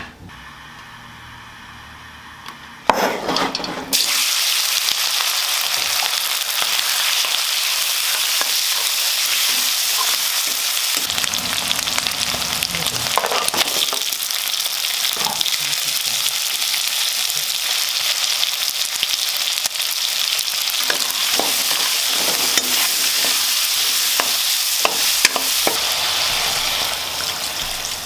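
Food frying in hot oil in a pan. It starts suddenly about three seconds in and then sizzles steadily, with occasional clicks and scrapes of a utensil stirring it.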